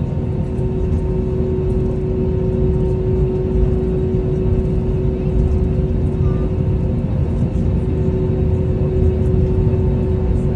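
Airbus A320neo's Pratt & Whitney geared turbofan engines running, a loud steady rumble with a constant hum over it, growing slightly louder.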